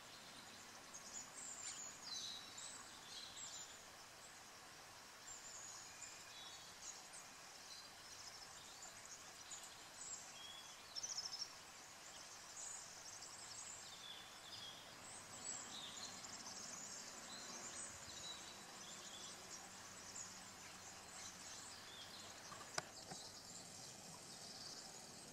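Faint outdoor ambience with scattered high-pitched chirps and calls of small songbirds, and a single sharp click near the end.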